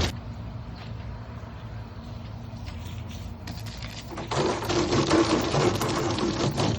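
High-pressure water spray blasting the inside of a plastic wheeled recycling bin. It stops right at the start, leaving a low steady machine hum, and starts again about four seconds in.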